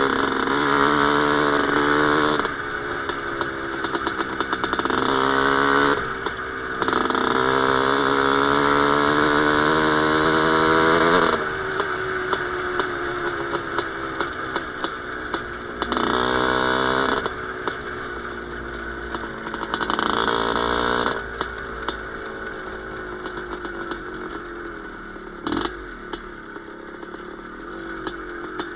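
Single-cylinder two-stroke IZh Planeta Sport engine in a ČZ motorcycle, revved up hard again and again, its pitch climbing each time and then falling back to a lower, uneven running note. A sharp knock comes near the end.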